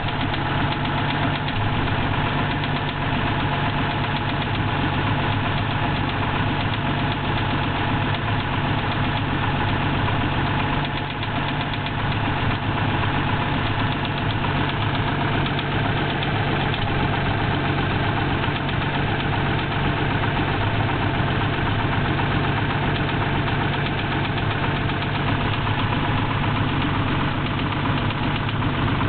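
Toyota 2F straight-six petrol engine running steadily with a knock in it, a fast, even rapping over the engine note. The level dips briefly about eleven seconds in.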